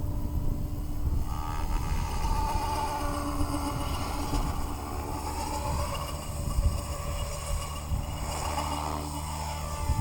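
Align T-Rex 550X electric RC helicopter in flight: the whine of its motor and rotor blades, rising and falling in pitch as it manoeuvres, over a steady low rumble.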